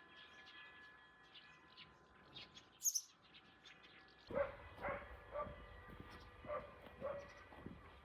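Small birds chirping, then from about halfway through a dog barking in a run of short yips, roughly twice a second.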